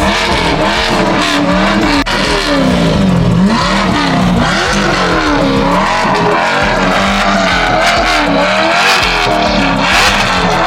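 Chevrolet C8 Corvette's V8 being revved again and again in place, the engine note climbing and dropping over and over.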